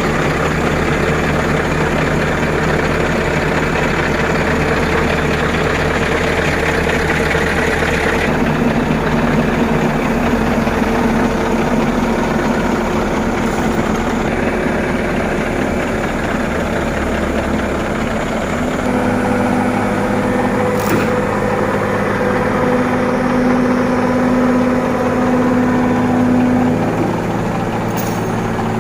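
Heavy diesel engine running steadily. Its note changes about a third of the way in and again about two-thirds in, and a couple of brief sharp hissing clicks come near the end.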